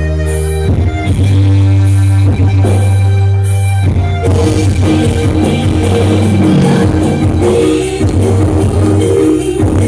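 Loud live jaranan band music, with held notes over a strong bass. About four seconds in the playing turns fuller and busier.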